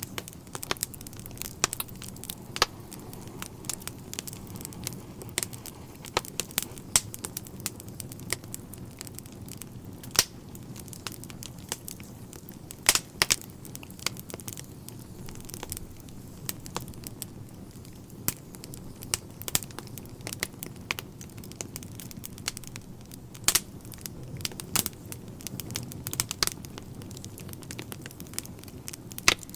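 Wood fire burning in a fireplace: irregular sharp crackles and pops, a few of them louder snaps, over a low steady rumble.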